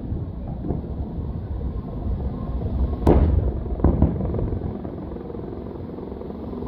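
Fireworks going off: two sharp bangs about three and four seconds in, with a fainter one near the start, over a steady low rumble.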